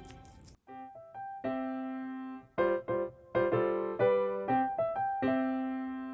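Piano music playing a melody of separate notes that start about a second in, after a brief pause.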